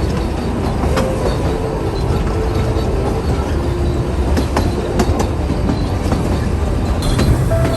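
Puffing Billy narrow-gauge steam train running along the track: a steady low rumble with scattered irregular clicks and knocks.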